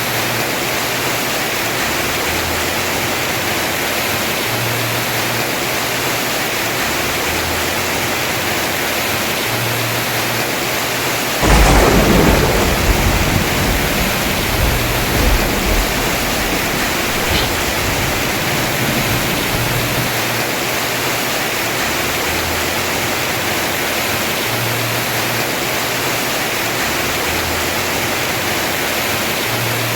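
Heavy rain falling steadily on a house roof; about eleven and a half seconds in, a sharp clap of thunder breaks out and rumbles away over several seconds.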